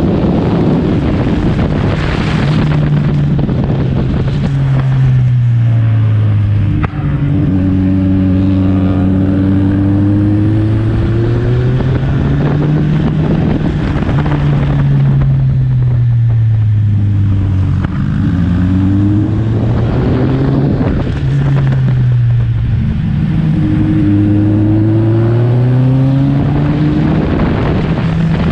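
Kawasaki Ninja 1000's inline-four engine running hard up a winding road, its pitch climbing and then dropping again and again as the throttle is opened and closed through the bends.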